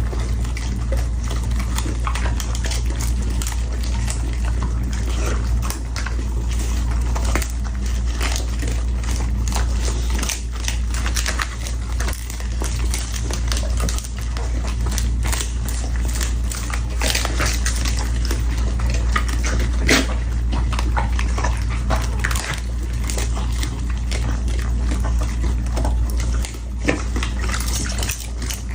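Dog eating: irregular wet chewing and lapping clicks over a steady low hum.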